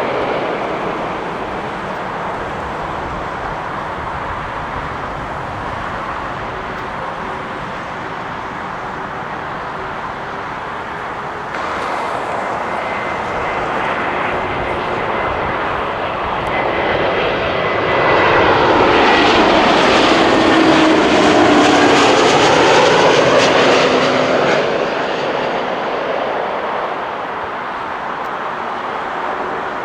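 Jet airliners on approach passing by with a steady engine rush and whine. After a cut about twelve seconds in, a second airliner comes close: its sound swells to the loudest point with a sweeping, swirling rush and engine tones sliding down in pitch, then fades.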